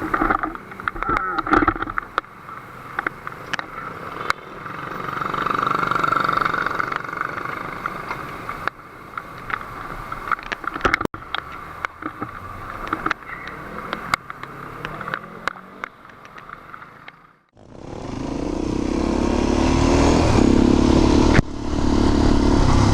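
Motorcycle riding noise: road and engine noise with scattered clicks and knocks. After a short break, a louder motorcycle engine sound builds and then runs steadily.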